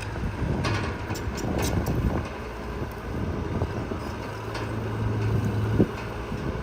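Heavy diesel construction machinery working, with a few metallic clanks about a second in and a steady low engine hum building in the second half, ending in a knock.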